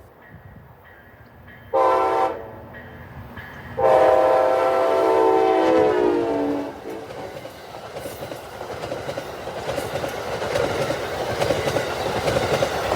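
Amtrak ALC-42 locomotive's horn sounding a short blast, then a long blast whose pitch drops near its end as it passes, followed by the train going by with wheels clicking over the rail joints, growing louder toward the end.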